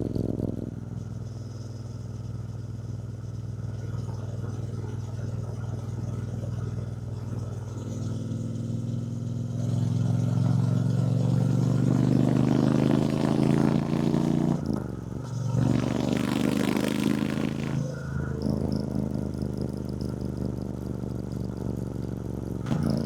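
The 1200 cc parallel-twin engine of a 2024 Triumph Bonneville T120, heard on the move. It holds a steady low note for several seconds, then rises in pitch and loudness as the bike accelerates. There is a brief break in the note about two-thirds through and a short rush of wind hiss, then it settles into a steady cruise.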